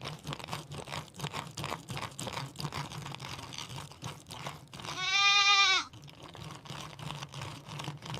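Goat bleating once for under a second, about five seconds in, over a steady run of small crunching clicks.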